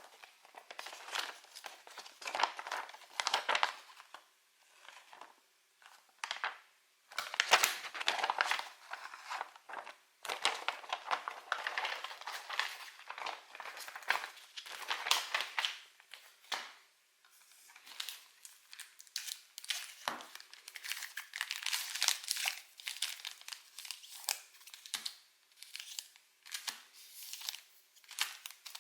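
Pokémon card packaging being handled: plastic and foil wrappers crinkling and tearing by hand in irregular bursts, with short pauses between.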